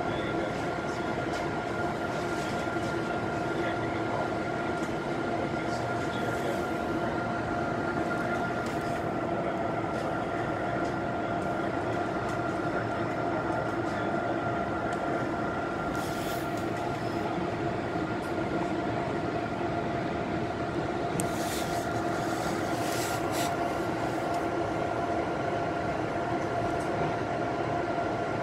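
Metro-North electric commuter train running, heard from inside the passenger car: a steady rumble of wheels on rail with a constant hum held at one pitch. There are a few brief sharp rattles about halfway through and a cluster of them near the end.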